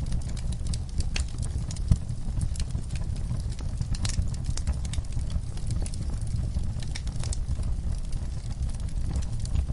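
Wood fire burning in a fireplace: a steady low rumble of flame with frequent irregular crackles and pops, one sharper pop about two seconds in.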